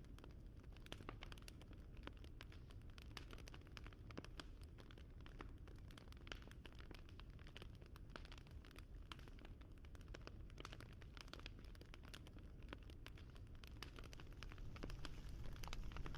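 Wood fire crackling: a steady scatter of small, sharp pops and snaps over a low rumble, getting louder near the end.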